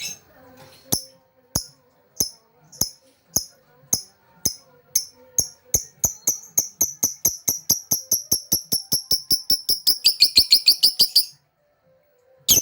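Lovebird's chattering song: a series of sharp, high chirps that starts slow, speeds up steadily into a rapid chatter, and breaks off about eleven seconds in, followed by one more short burst near the end.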